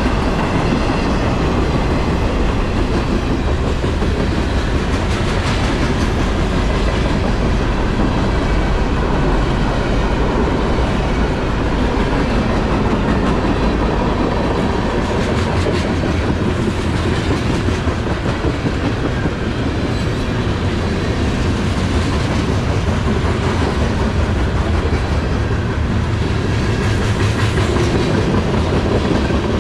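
Norfolk Southern freight train rolling steadily past, its cars' wheels clattering over the rail joints in a continuous clickety-clack.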